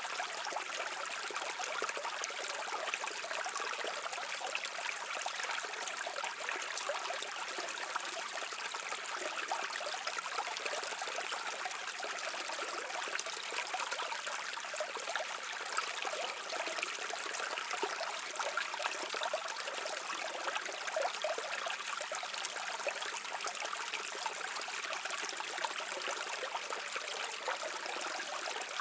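Brook water flowing, a steady, unbroken rush of water with fine trickling detail.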